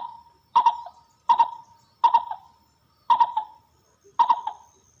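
Dove calling: six short coo notes, each a quick double note, repeated about every two-thirds of a second with a slightly longer pause before the last two.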